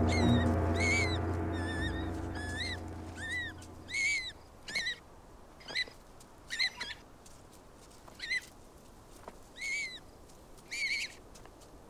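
A bird calling: a string of about a dozen short, arched chirps, one every second or so. Background music fades out in the first few seconds.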